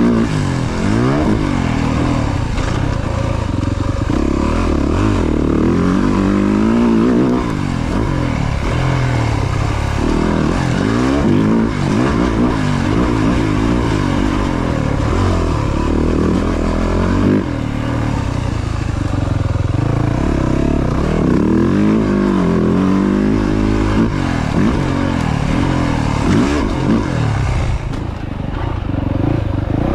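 Yamaha YZ450F dirt bike engine ridden hard around a track, its pitch rising and falling over and over as the throttle opens on the straights and closes into the corners.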